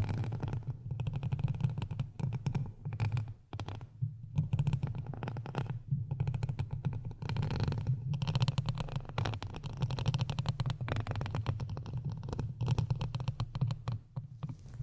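Close-miked ASMR scratching and crackling over a low rumble, in stretches broken by brief pauses.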